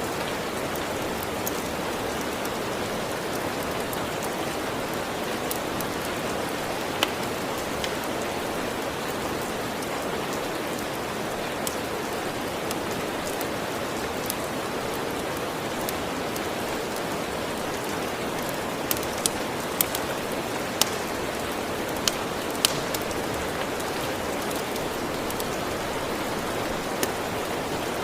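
Steady rain, with a few sharp crackles from a wood fire scattered over it, several close together about two-thirds of the way through.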